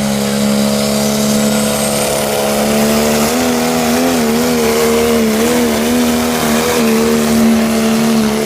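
A competition pulling vehicle's engine running hard at high revs, loud and unbroken. It holds a steady pitch at first, then from about three seconds in the pitch wavers up and down as it pulls.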